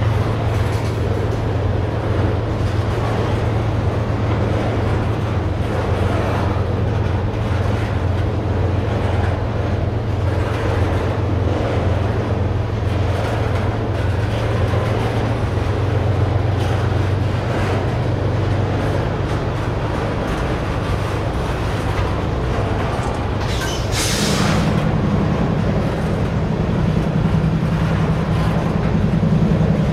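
A long string of railroad tank cars rolling slowly past, the wheels rumbling and clattering steadily on the rails over a low hum. About 24 seconds in there is a brief hiss, and the low hum steps up in pitch.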